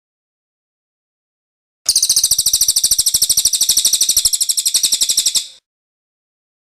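Cililin bird singing its rolling song: one rapid, evenly pulsed high trill lasting about three and a half seconds, starting about two seconds in.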